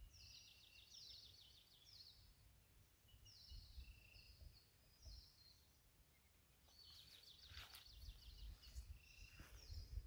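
Faint birdsong: a small songbird sings short, high trilled phrases about every two seconds over a low wind rumble.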